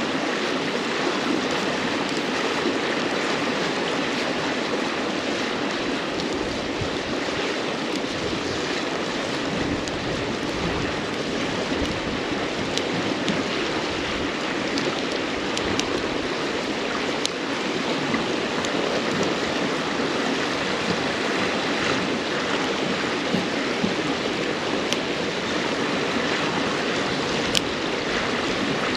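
A river flowing steadily over stones, with a few scattered sharp crackles and pops from burning firewood.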